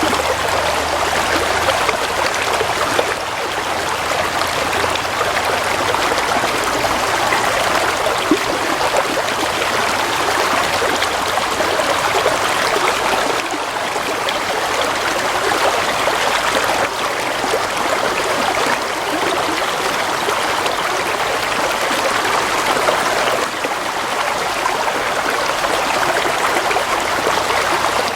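A stream of water flowing and trickling steadily.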